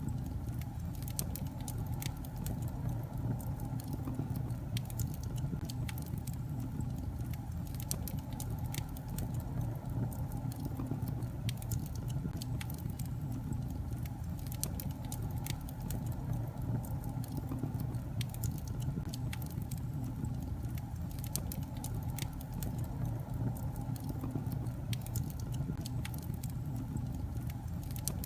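Wood fire burning in a fireplace: a steady low rumble of flames with frequent small, sharp crackles and pops from the logs at irregular intervals.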